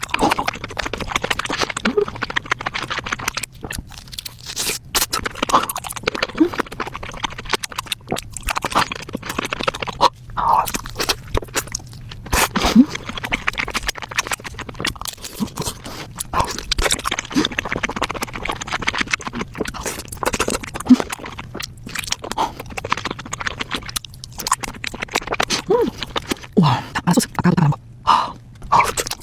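Close-miked eating sounds: chewing with wet, crackly smacking and crunching bites, irregular throughout.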